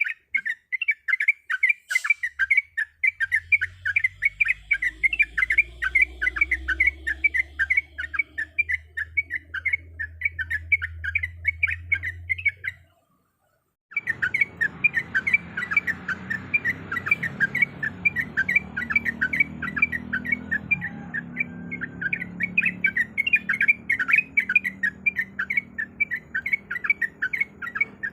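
A trucuk bulbul singing a long, rapid chattering song of short repeated notes, several a second. It cuts out completely for about a second midway, then carries on. A low rumble sits underneath for part of it.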